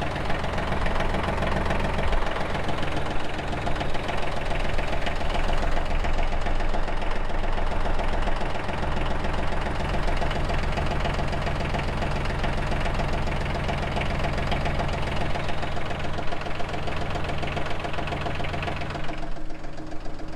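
Tractor engine idling steadily while it warms up after a cold start. Its low rumble drops away about nineteen seconds in.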